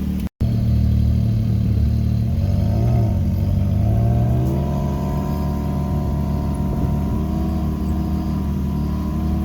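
Can-Am Maverick X3 Turbo RR's turbocharged three-cylinder engine running under way, the revs wavering and climbing between about two and five seconds in, then holding fairly steady. The sound drops out briefly just after the start.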